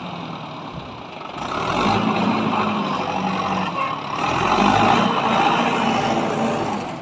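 Tractor diesel engine running hard, its revs building about a second in and falling away near the end.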